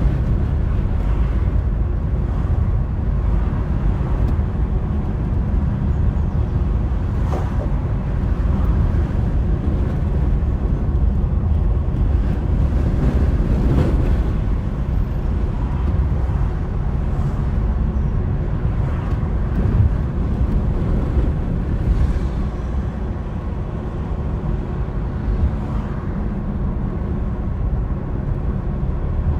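Car driving in high winds: a steady low rumble of road and wind noise, with an occasional light knock.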